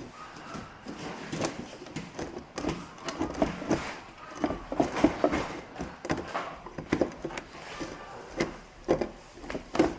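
Irregular clicks, taps and knocks from hands and tools working on the plastic casing of a flat-screen TV laid face down.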